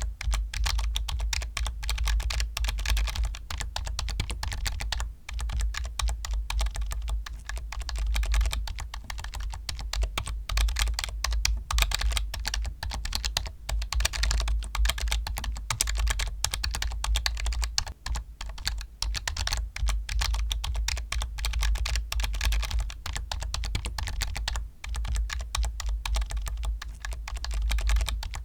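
Fast, continuous typing on a computer keyboard, a dense run of key clicks with a deep thud under each stroke, broken only by a few brief pauses.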